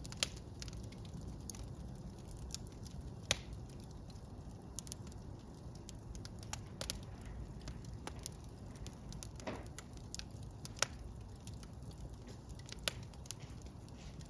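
Wood fire burning in a fireplace: a steady low rumble of flames with scattered sharp crackles and pops, a handful of them louder than the rest.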